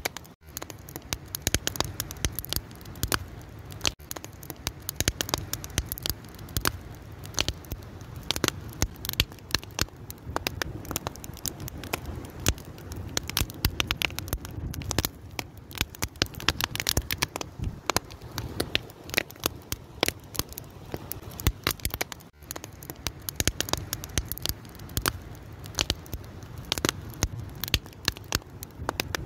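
Fire crackling, with dense irregular snaps and pops over a steady low rumble. The sound dips out for a moment twice, once near the start and once about three-quarters of the way in.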